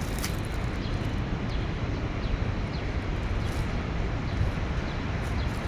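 Steady road traffic passing, with a few faint, short high chirps from small birds.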